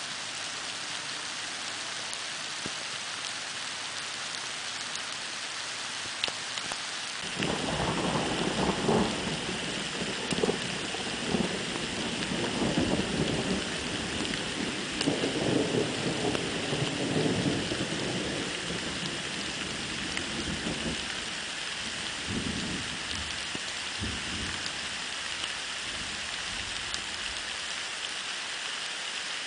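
Steady rain with a long roll of thunder that breaks in about a quarter of the way through. The thunder rumbles in several swells for roughly a quarter of a minute, then dies away, leaving the rain.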